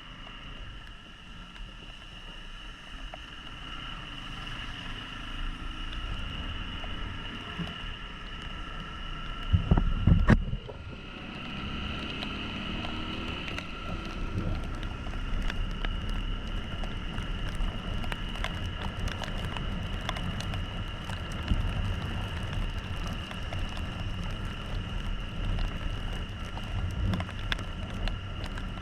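Yamaha XTZ 150 Crosser single-cylinder motorcycle engine running under way, with road and wind noise that builds slowly and a short loud rush about ten seconds in. Many small ticks run through the second half.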